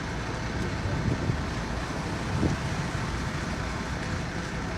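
Heavy construction machinery's diesel engine running steadily, with two brief louder swells about a second and two and a half seconds in.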